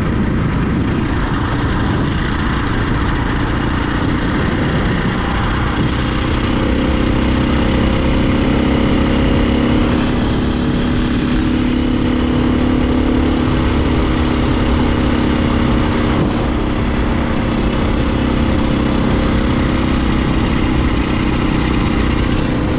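Dirt bike engine running at a steady cruising speed, its drone holding an even pitch, under heavy wind rush on the microphone.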